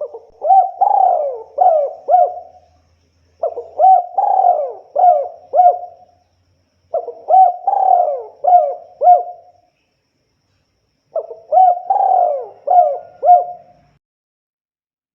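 Spotted dove (tekukur) cooing: four phrases of about five coos each, repeated every three to four seconds.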